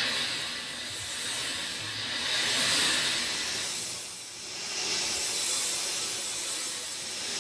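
Steady rain, an even hiss that swells and eases every two or three seconds.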